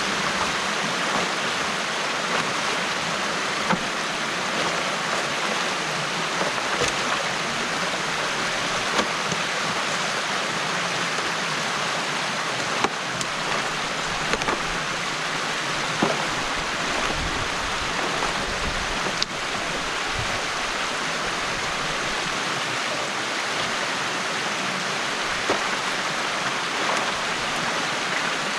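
Stream water rushing steadily through a beaver dam, with a few small sharp knocks and splashes now and then.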